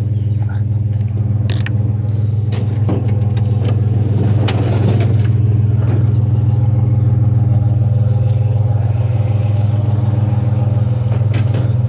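Vehicle engine idling steadily, with scattered knocks and clatter of things being handled over it, thickest about halfway through.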